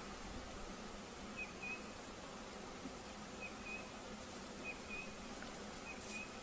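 Faint steady hum of a honeybee swarm around a hive box. A bird's short chirp repeats every second or two.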